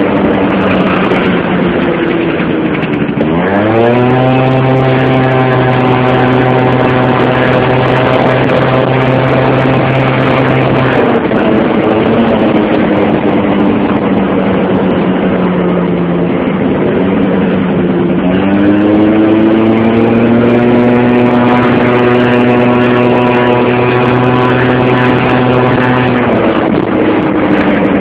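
Motorcycle engine running close by, its pitch climbing about three seconds in and held higher for several seconds before settling back, then climbing and holding high a second time before dropping again near the end.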